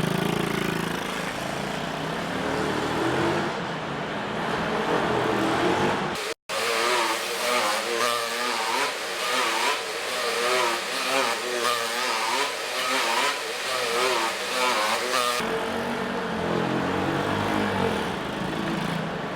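IMR 90 pit bike engine running hard as it is ridden round a track. Its pitch rises and falls over and over as the throttle is opened and closed, and it cuts out abruptly for a moment about six seconds in.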